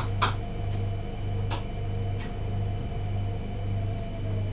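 Electric multiple-unit train running, heard from inside the driver's cab: a low pulsing hum with a steady electric whine above it. A few sharp clicks cut through, two right at the start and one about a second and a half in.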